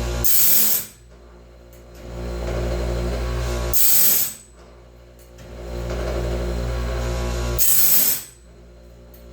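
Homemade bandsaw-band sharpener working automatically in a repeating cycle about every four seconds, one tooth per cycle: a motor hum builds and holds, ends in a short, bright grinding burst, then drops away.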